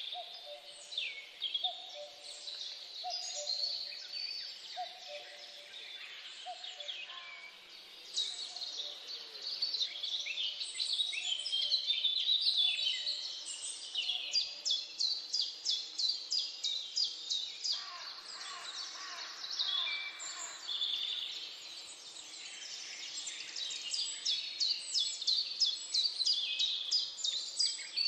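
Several birds singing and chirping together, with fast trills of rapid repeated high notes. For the first several seconds a lower call repeats about once a second.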